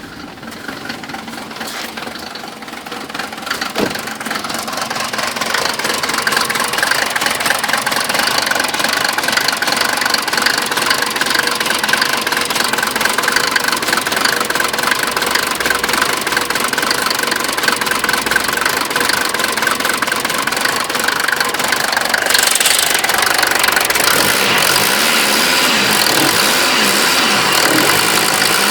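Mercedes-Benz W124 250D's five-cylinder diesel idling just after a cold start at about 0°C, running a bit clanky with diesel knock. It gets louder over the first several seconds, then runs steady.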